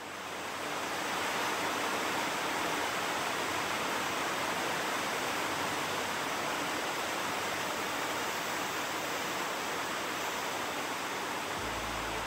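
Heavy rain falling steadily during a storm, an even wash of noise that builds over about the first second and then holds.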